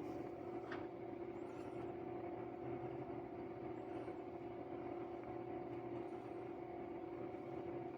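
Steady electrical hum with a fainter overtone an octave above, and a faint click about three-quarters of a second in.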